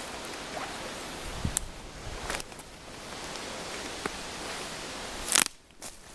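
Footsteps and rustling over forest-floor debris against a steady outdoor hiss, with scattered small crunches and snaps. There is a sharp click a little over five seconds in, after which the sound briefly drops away.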